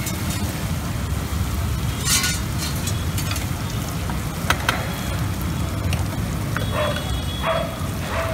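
Spice paste frying in oil on a large flat street-food griddle (tawa), a steady sizzle over a low background rumble, with a few short sharp metal taps from the cook's utensils.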